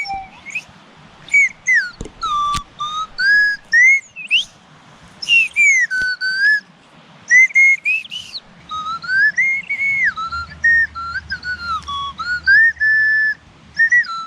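Small owl-call flute whistling a string of short notes that slide up and down in pitch. About halfway through, the notes run together into longer phrases.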